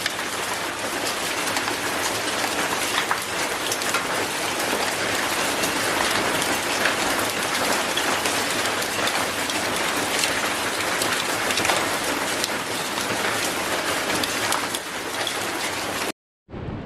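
Heavy rain falling steadily: a dense hiss of rain striking surfaces, with many individual drop impacts. It cuts off abruptly near the end.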